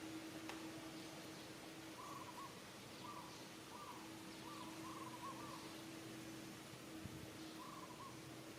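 A bird calling in short, wavering notes, repeated in small groups with pauses between, over a faint steady low hum.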